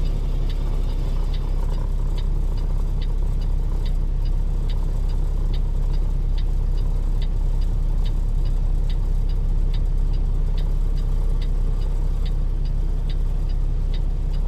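Truck cab interior while driving: the engine and road make a steady low rumble, with the turn signal ticking evenly about two and a half times a second.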